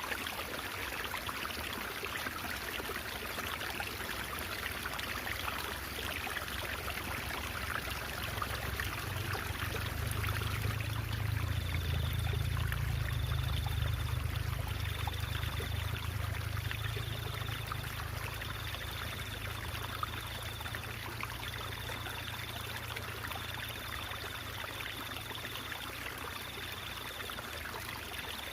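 Water of a stream trickling and babbling steadily. A low rumble swells in the middle and fades again, and a faint high-pitched chirp repeats about once a second from partway through.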